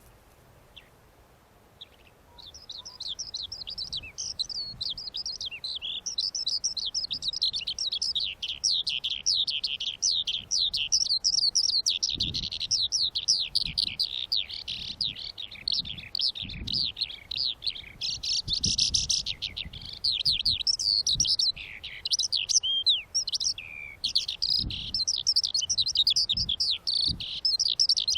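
Birds chirping and twittering in a dense, continuous stream of rapid high notes, starting about two seconds in.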